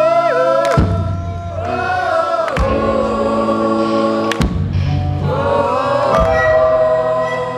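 Live band playing a slow gospel-style number: voices hold and bend long sung notes over a steady bass, with a heavy drum hit about every two seconds.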